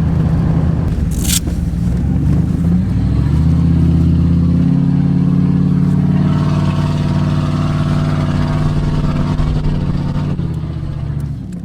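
1998 Dodge Ram 2500 pickup's engine running as the truck drives off, its pitch stepping up and down a couple of times as it accelerates and shifts. A short hiss about a second in.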